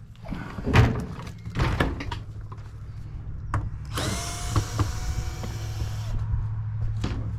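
Metal parts clanking a few times while scrap appliances are pulled apart, then a cordless power drill running for about two seconds with a steady whine, over a low hum.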